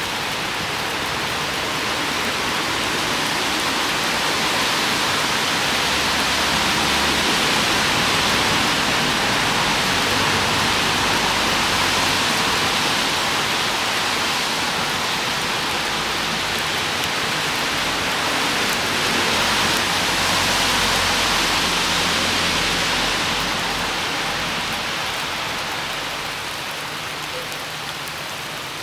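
Steady heavy rain falling and pattering on surfaces, swelling slightly a couple of times and easing a little near the end.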